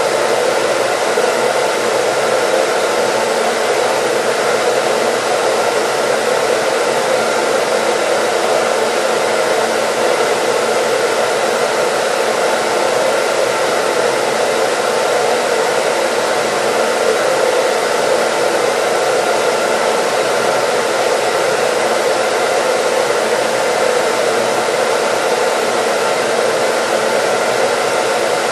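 Hair dryer running continuously: an even rushing blow with a few faint steady hum tones, unchanging throughout.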